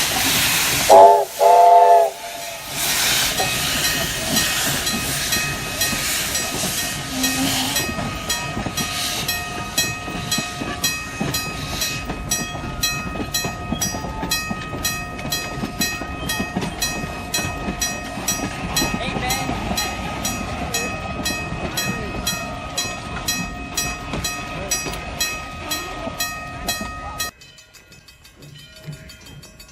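Steam locomotive venting a steady hiss of steam, then giving two short whistle blasts about a second in. A steady rhythmic beat from the moving train follows, and the sound drops away abruptly near the end.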